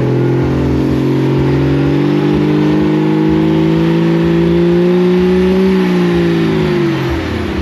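Cummins diesel engine revved up and held at high RPM, its pitch climbing slowly, then let go so that it falls back and drops away about seven seconds in. It is running at a lot of RPM for a Cummins.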